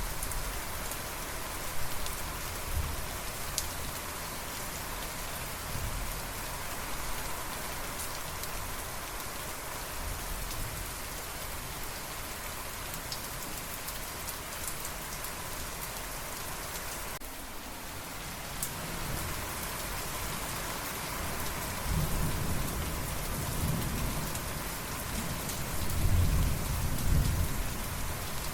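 Steady heavy rain falling on a surface, with low rolls of thunder rumbling in the last few seconds.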